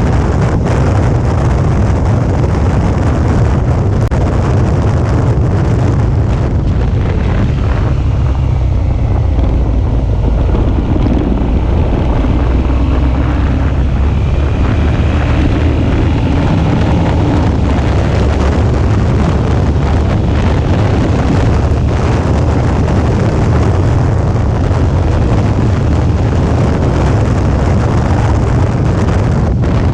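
Suzuki V-Strom 650's V-twin engine running steadily while the motorcycle is ridden, with wind buffeting the onboard camera's microphone.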